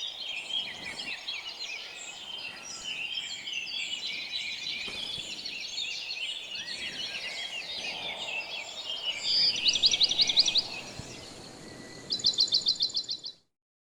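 Many birds chirping and calling together in a dense chorus, with two loud, rapid trills from one bird near the end. The sound cuts off abruptly just before the end.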